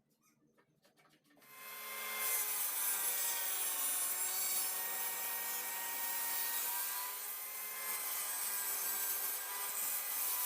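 Table saw's circular blade cutting through wood, starting about a second and a half in and running steadily.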